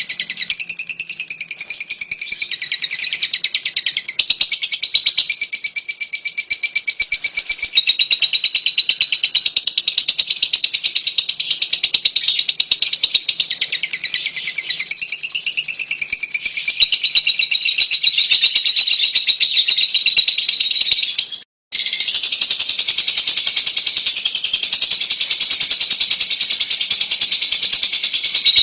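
Fischer's lovebird singing: a continuous, rapid, high twittering chatter. It breaks off for a moment about two-thirds of the way through, then resumes.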